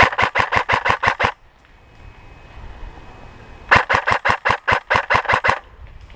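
Airsoft electric gun (AEG) firing two full-auto bursts, about seven shots a second: a short burst at the start and a longer one of about a dozen shots about two seconds later.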